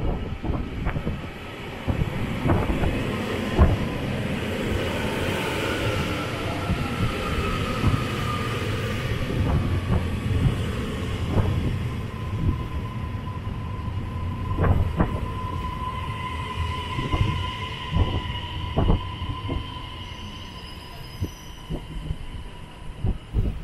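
JR Hokkaido electric commuter train pulling into the platform and slowing, with a rumble and sharp clacks of wheels over rail joints. About a third of the way in, a whine glides down in pitch, then holds steady before fading near the end.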